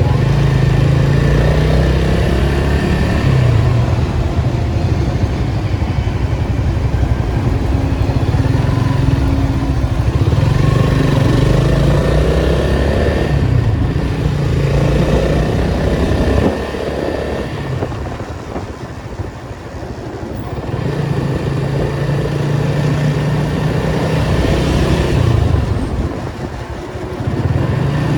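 Datsun 280Z's inline-six engine pulling and easing off, its note climbing in pitch and dropping several times as it works through the throttle and gears. It quietens for a few seconds past the middle and again briefly near the end.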